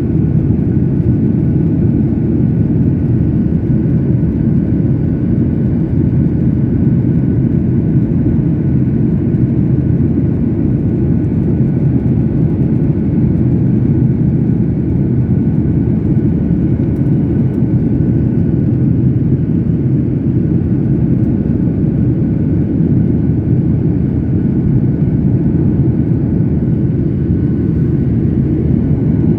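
Jet airliner cabin noise in flight: a steady low rushing of engines and airflow, with a faint thin whine above it.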